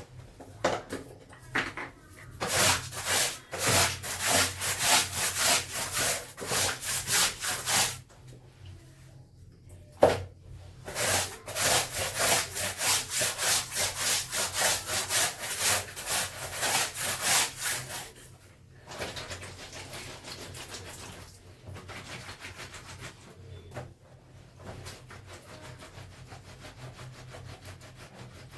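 Clothes being scrubbed by hand in a wash, a brisk rhythmic rubbing of about two strokes a second in two long runs, with a sharp knock between them. The rubbing goes on more softly near the end.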